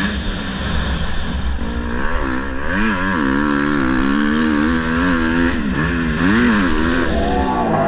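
Motocross dirt bike engine being ridden hard, its pitch rising and falling repeatedly as the throttle is opened and closed.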